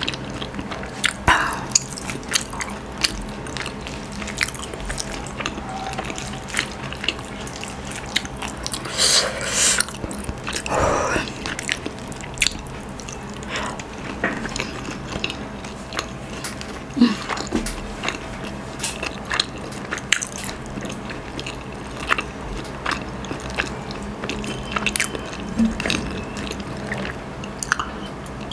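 Close-miked mouth sounds of a person chewing soft rice, shredded chicken and boiled egg, with many small wet clicks and smacks.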